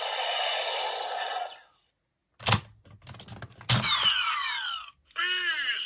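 Kamen Rider W toy belt and Gaia Memory toys making electronic sounds: a steady multi-tone electronic chord that stops about a second and a half in, then a sharp plastic click. A second click follows, with falling electronic sweeps after it, and near the end there is a short run of bending electronic tones.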